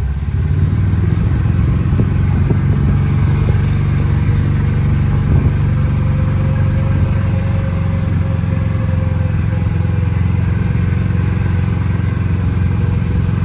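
Motor vehicle running steadily while driving, a low even engine hum with road noise, heard from inside.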